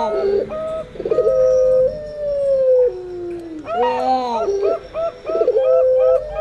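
Doves cooing: puter pelung (Barbary doves) giving long drawn-out coos that slowly fall in pitch, about a second in and again near the end, overlapping with perkutut (zebra doves) cooing in short, quickly repeated notes.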